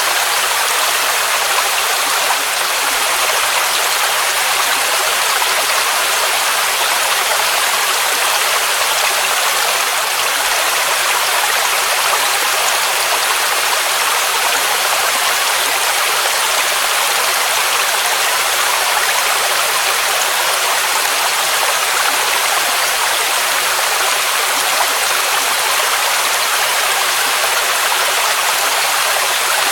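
Waterfall rushing steadily, an even, unbroken roar of falling water with no other sounds.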